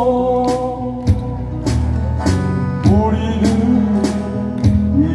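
A voice singing a slow Korean pop ballad over music with guitar, bass and a steady beat. A long held note gives way to the next sung phrase about three seconds in.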